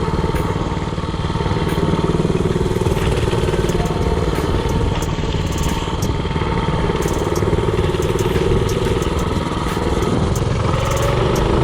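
Predator 224cc single-cylinder four-stroke engine of a mini bike running steadily under way, with scattered light clicks, and revving up near the end.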